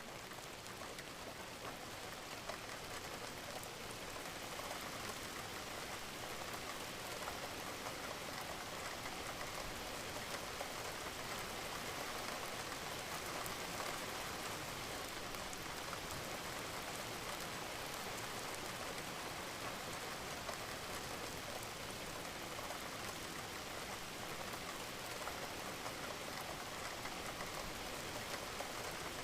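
Steady rain: an even hiss of falling rain sprinkled with the small ticks of individual drops, holding at one level throughout.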